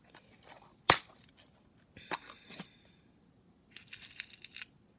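Small craft pieces being handled on a tabletop: one sharp click about a second in, then light clicking and rustling.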